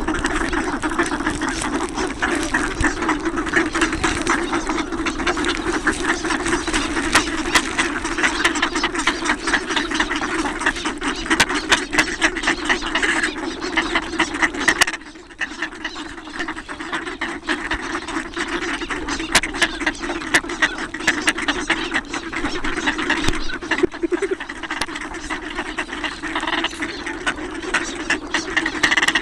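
A large flock of ducks quacking and chattering continuously and densely, dipping briefly about halfway through.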